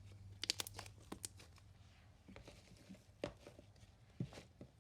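Sticky slime being handled and stretched by hand, giving scattered faint clicks and crackles.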